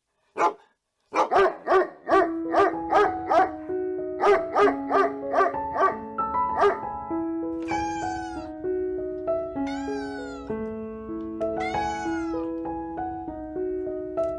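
A dog barks in a quick run of short barks, about two or three a second, through the first half. A cat then meows three times, each a drawn-out call that falls in pitch. A light background tune of stepping notes plays under both.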